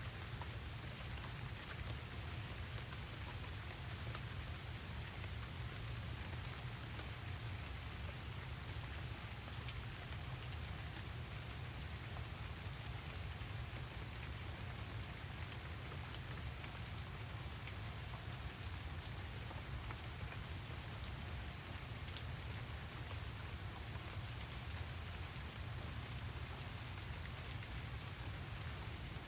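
Steady rain falling and pattering on a surface, with a low, constant rumble underneath and a few sharper drop ticks.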